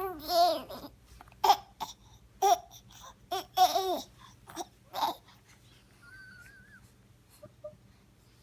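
Baby babbling and squealing in a string of short, wavering vocal bursts over about five seconds, then falling quiet.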